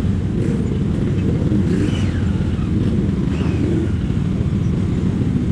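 Motorcycle running at a steady pace, a dense low rumble that holds at an even level throughout.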